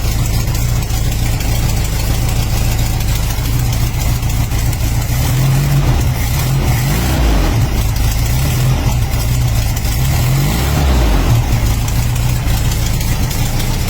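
A car engine running, loud and close, its pitch shifting up a few times as it is revved.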